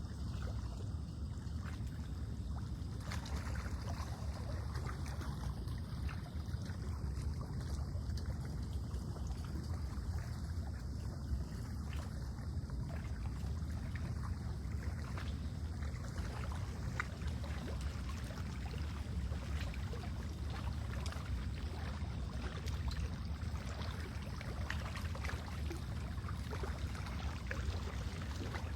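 Steady lakeside ambience: a constant low wind rumble with small waves lapping and trickling at the shore.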